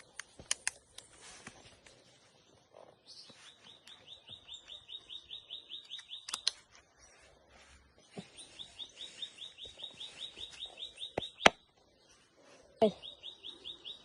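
A bird singing a rapid trill of short downslurred chirps, about six a second, repeated three times with each trill lasting about three seconds. Sharp clicks and knocks come in between, the loudest near the end of the second trill.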